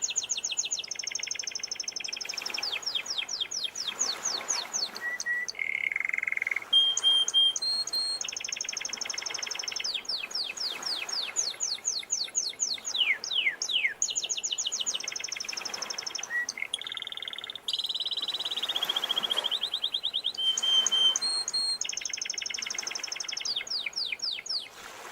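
Domestic canary singing a long unbroken song of rapid rolling trills, repeated chip notes and quick downward-sweeping whistles, with sea waves washing faintly behind it.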